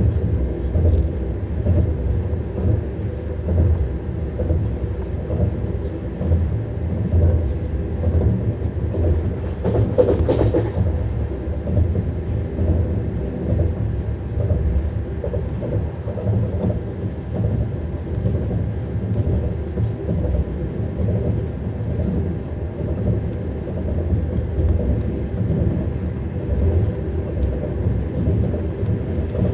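Lastochka (Siemens Desiro RUS) electric train running, with a steady low rumble of its wheels on the rails and a brief louder rush about ten seconds in.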